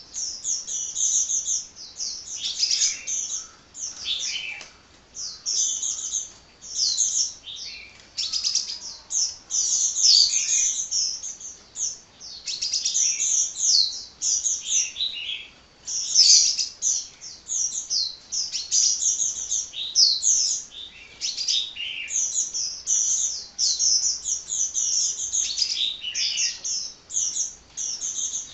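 Sunbird singing continuously: rapid runs of high-pitched chirps and twitters in phrases of a second or two, with only brief gaps between them.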